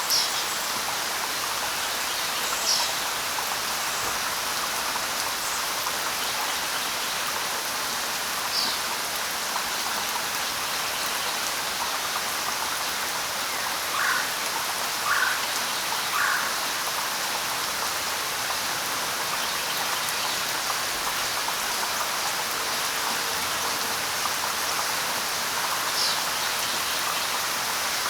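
Light rain falling steadily. Now and then a bird gives a short call, with three lower calls about a second apart near the middle.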